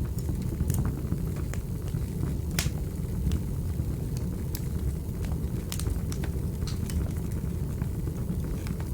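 Wood fire crackling in a fireplace: a steady low rumble of flames with irregular sharp pops and clicks, one of the louder pops about two and a half seconds in.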